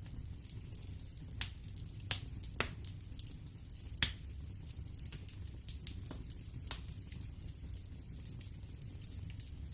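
Wood fire crackling in a fireplace: a steady low rumble of the flames with scattered sharp pops, a cluster of louder snaps between about one and a half and four seconds in.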